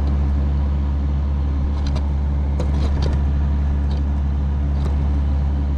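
Steady low rumble of a flowing river close to the microphone, with a few faint knocks in the middle.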